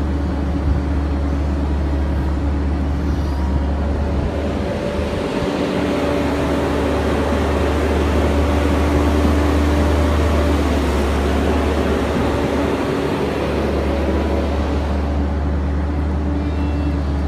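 Kobelco SK135SRLC excavator's diesel engine running with a steady low drone, growing louder and hissier from about four seconds in and easing back near the end.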